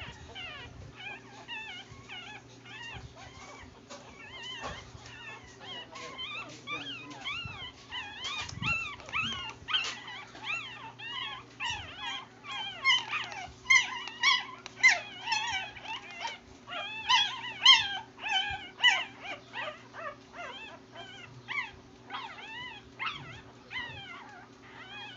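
Litter of newborn puppies whimpering and squeaking: many short, high-pitched cries overlapping and repeating, thickest in the middle, over a steady low hum.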